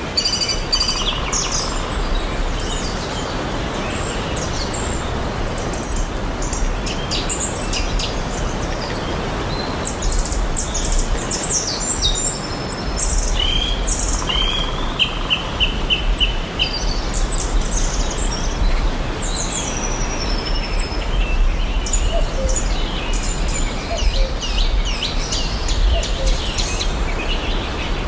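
Several songbirds chirping and singing over a steady background hiss. About halfway through, one bird gives a quick run of about seven even notes.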